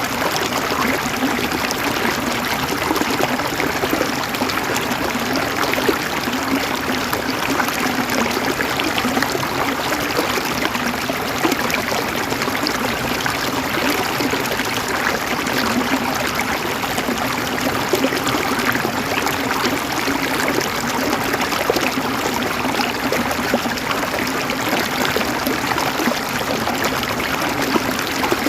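River water flowing and gurgling over stones, a steady rushing with constant small splashes and no change or pause.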